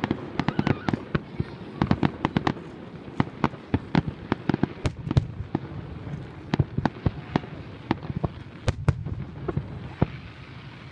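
Fireworks display: a rapid, irregular run of sharp bangs and pops from shells bursting, several a second.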